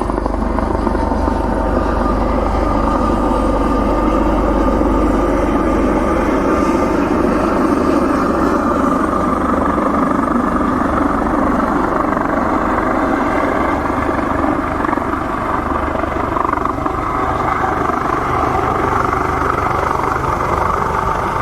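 Coast Guard rescue helicopter flying in close, its rotor and engine noise loud and steady throughout.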